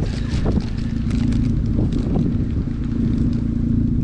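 A car engine idling steadily, with a low hum throughout.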